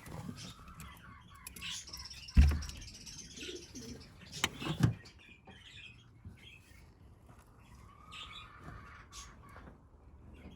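Birds chirping and tweeting in short scattered calls, with a loud thump about two and a half seconds in and two sharp knocks a couple of seconds later.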